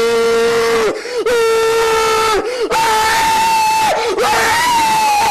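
Loud scream-like wailing held on one steady note in long stretches, broken by short dips with quick pitch wobbles. It jumps about an octave higher a little under three seconds in.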